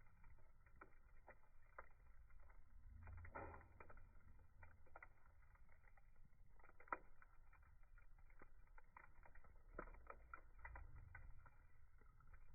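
Wood fire crackling faintly: irregular small snaps and pops over a low rumble, with one sharper pop about seven seconds in.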